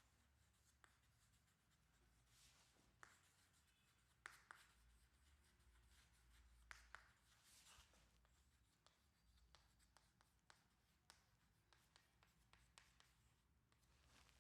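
Near silence in a small room, broken by faint scattered taps and scratches of writing.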